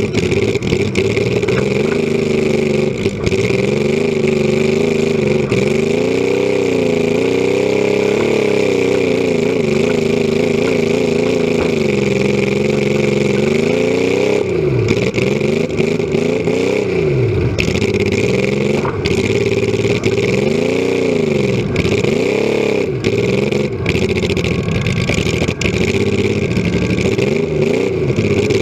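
Compact demolition derby car's engine running loud through short open exhaust stacks, revving up and down over and over. The revs swing more quickly in the second half.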